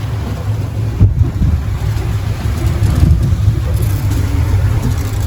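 A boat's engine running steadily under way, a loud low rumble with wind buffeting the microphone. A sharp thump about a second in.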